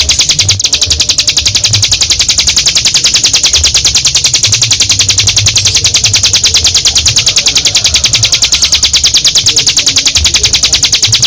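Ciblek gunung (a prinia) singing its long, unbroken rattling trill ('ngebren'): rapid, evenly repeated high notes kept up without a pause.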